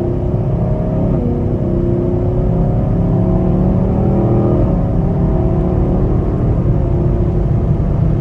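Car engine accelerating through the gears: its pitch climbs steadily, drops at an upshift about a second in and again around four and a half seconds, then climbs again.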